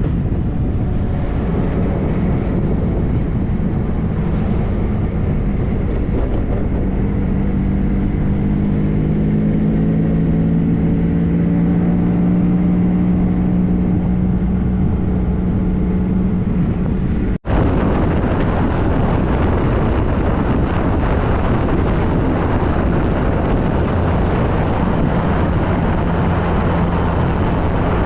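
Triumph Trophy SE's three-cylinder engine running under way with heavy wind rush over the microphone; the engine note climbs gradually as the bike gathers speed. About two-thirds through the sound breaks off for an instant, and after that the wind rush is louder than the engine.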